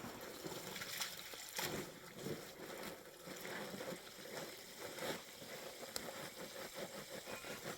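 Faint trickling and sloshing of water, with light irregular clicks.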